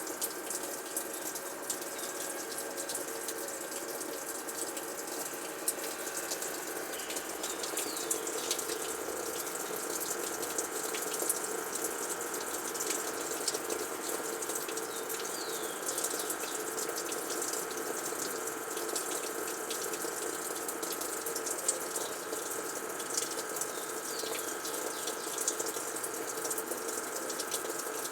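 Frigidaire washing machine running, with a steady rush of water through the tub and a steady hum under it.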